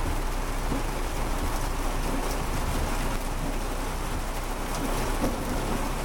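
Heavy rain pelting the car's roof and windows, heard from inside the cabin as a steady, dense patter.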